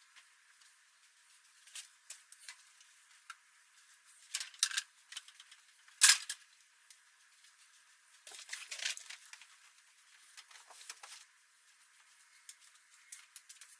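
Scattered clicks, knocks and rustling of household items being handled and moved about a room, thin-sounding with no low end, the sharpest a single click about six seconds in.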